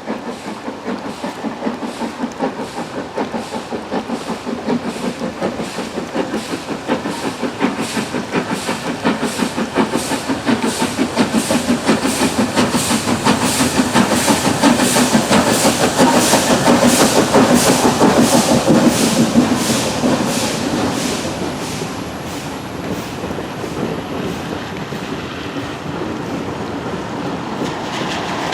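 Steam locomotive working a train with a regular exhaust beat that quickens slightly and grows louder to a peak about two-thirds through, then eases off, as it runs past.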